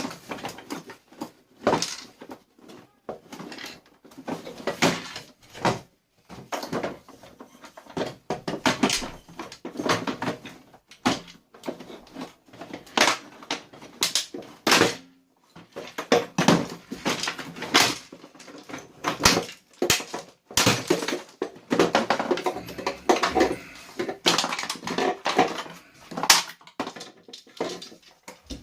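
Hard plastic parts of a vacuum cleaner being pulled apart and handled during dismantling: irregular clicks, knocks and cracks throughout.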